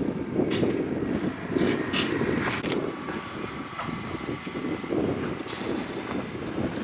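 A burning tractor fire: a steady rushing rumble with several sharp cracks and pops, most of them in the first half.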